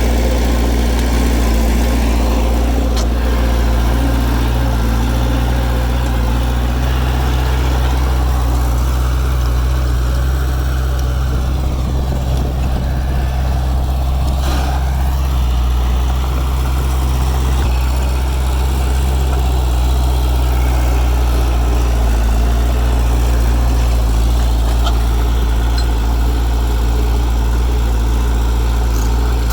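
Heavy diesel engine of earthmoving machinery running steadily with a deep, even note and no speech over it.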